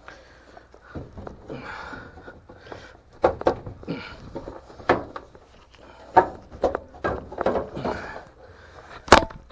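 A dryer's lint trap being worked out of its slot: repeated scraping rubs with scattered clicks and knocks, and a sharper knock near the end.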